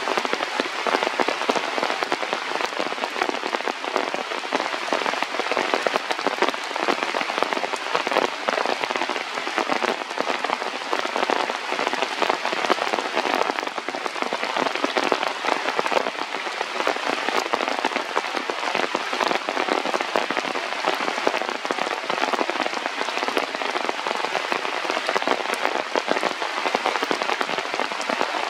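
Steady rain falling on surfaces: a dense, even hiss of countless small drop impacts that keeps on without letting up.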